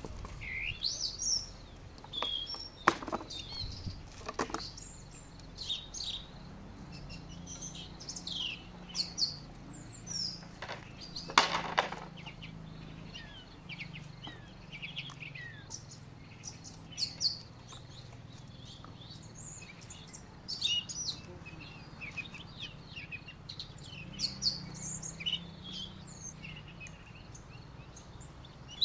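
Small birds chirping and calling on and off throughout, with a few sharp knocks, the loudest about eleven seconds in.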